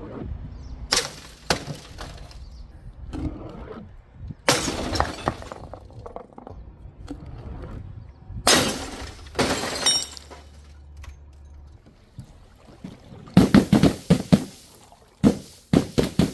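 Glass bottles smashing and shattering, with shards clinking. There are several separate breaks, some longer crashes among them, and a quick run of loud hits in the last few seconds.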